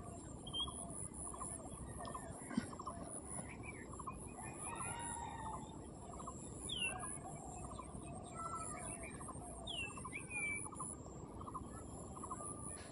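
Birds calling: repeated short rattling calls and brief chirps, over a steady high-pitched hiss.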